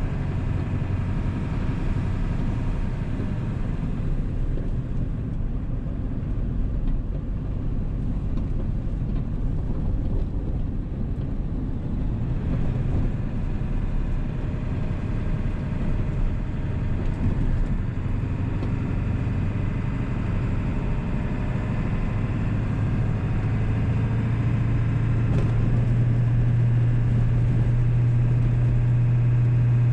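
Ford 7.3 Powerstroke turbodiesel V8 running while the truck is driven, a steady low drone. About two-thirds of the way through, its pitch and loudness rise a little as it pulls harder.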